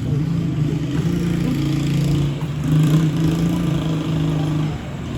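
A motor vehicle's engine running steadily close by with a low, even hum. It drops away about four and a half seconds in.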